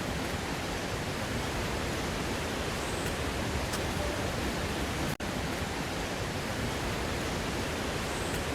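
Waterfall rushing: a steady, even roar of falling water that briefly cuts out about five seconds in.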